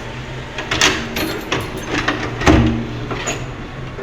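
A handful of knocks and clatters, loudest about two and a half seconds in, over a steady low hum.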